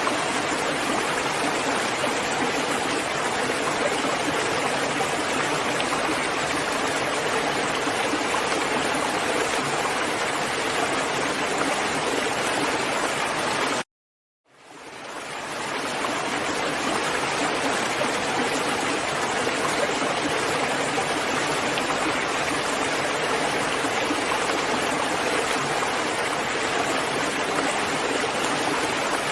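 Rain falling steadily as an even hiss. About halfway it cuts out to silence for about half a second, then fades back in over a second or two.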